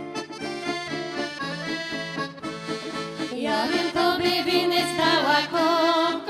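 Folk band playing a traditional song, led by accordion over a steady bass-and-chord accompaniment. About three seconds in, a louder, wavering higher melody line comes in over it.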